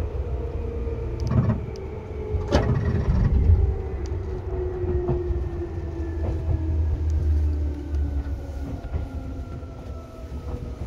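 Seibu 2000 series electric train running, heard from inside the car: a steady rumble of wheels on rail under motor whine that slowly falls in pitch as the train slows. There is a sharp clunk about two and a half seconds in and a weaker one just before it.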